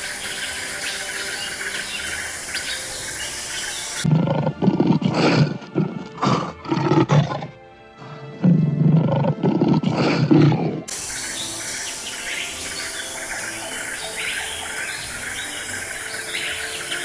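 Outdoor ambience full of small bird and insect chirps. About four seconds in it gives way to a series of loud, deep, rough roars from a large animal, in two groups with a brief pause between them, before the chirping ambience returns.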